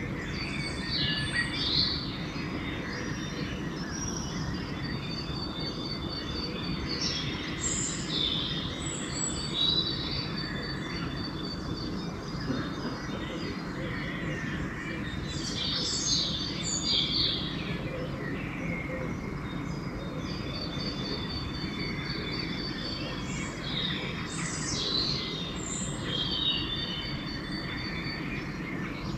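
Songbirds singing in a dawn chorus, with whistled and chirping phrases every few seconds, over a steady low background rumble.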